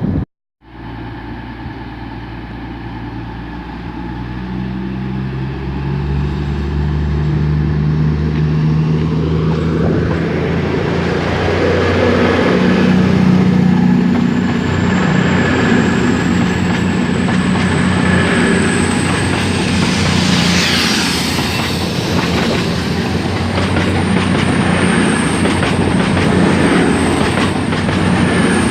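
A train running close by, its low engine note building over the first several seconds, with wheels clattering over rail joints and a thin high whine. A brief squeal comes about two-thirds of the way through.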